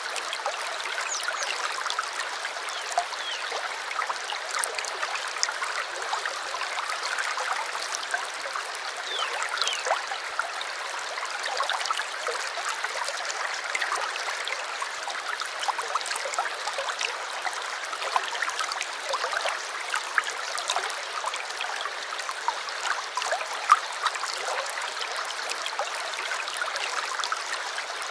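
A small stream babbling and trickling over stones, a steady rush of water dotted with quick little splashes and plinks, with almost no low rumble.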